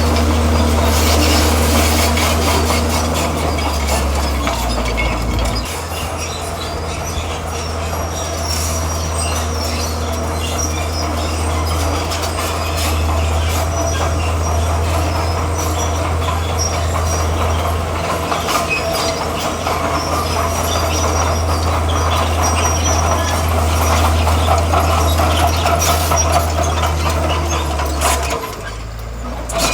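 Komatsu bulldozer working, its diesel engine running under load with a steady low drone while the steel tracks squeal and clank. The engine note drops briefly near the end, then picks up again.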